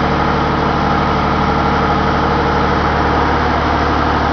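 A large engine running steadily in an engine room, a loud constant hum of even pitch that does not change.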